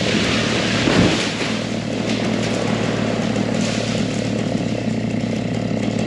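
An engine running steadily under work, with a brief louder knock about a second in.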